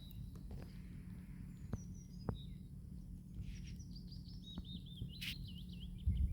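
Small birds calling, with a rapid warbling phrase about two-thirds of the way through, over a steady low rumble and a few scattered sharp clicks.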